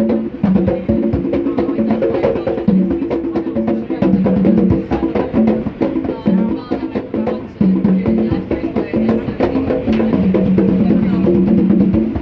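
Subway drummers playing: a fast, continuous stream of sharp stick and drum hits with a wood-block-like click, over a line of held pitched notes that changes every half second or so.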